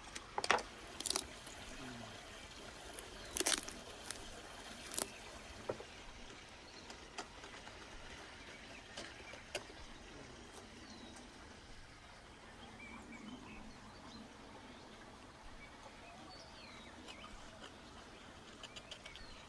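Scattered sharp clicks and knocks from a knife working through a lamb carcass, cutting meat away from the ribs and bones, loudest in the first five seconds. Faint bird chirps now and then.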